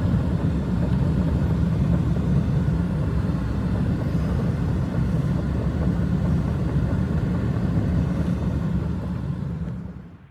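Strong blizzard wind, a steady low rumble that fades out near the end.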